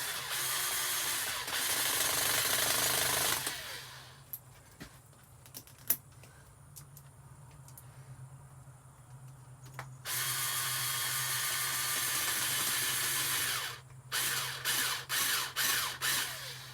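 A handheld power tool runs in two long bursts of a few seconds each, with a few clicks between them, then in several short bursts near the end.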